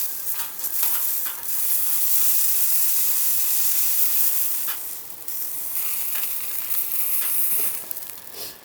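Food sizzling in a hot pan, a steady frying hiss, with a few sharp clicks from a cooking utensil. It fades away near the end.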